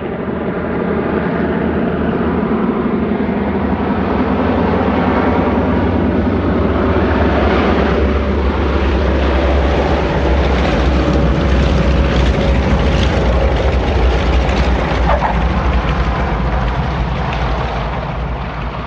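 Airliner jet engine noise: a loud, steady rumble with a wide hiss, fading in at the start and out near the end, with a faint tone that slowly falls in pitch midway.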